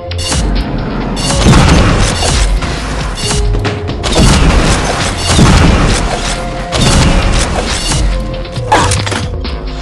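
Fireworks going off in quick succession: repeated booms and dense crackling, with music playing underneath.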